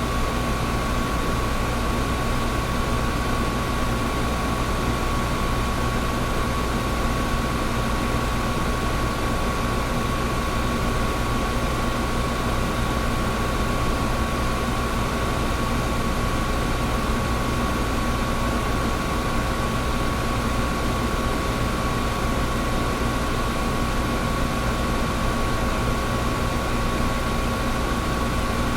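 Air conditioner running steadily: an even rush of air with a constant hum over it and a fainter low hum, unchanging throughout.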